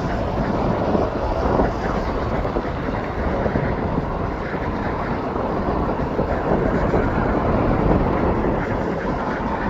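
Steady, loud rumble of jet aircraft engines, an even noise without clear tones.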